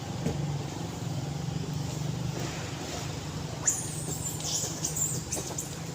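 A steady low hum like an idling vehicle engine, with a flurry of high, gliding squeaks and chirps starting a little past halfway.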